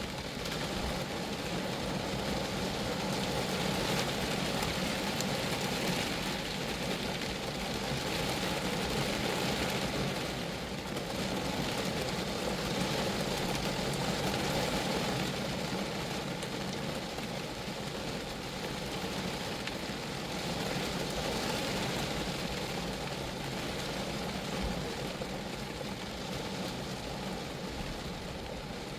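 Steady rain falling on a Geo Metro, an even patter of drops on the small car's body that swells and eases slightly.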